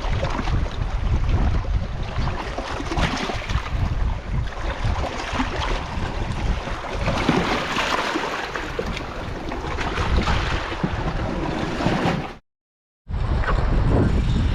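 Wind buffeting the microphone over the wash of sea surf. The sound cuts out completely for about half a second near the end.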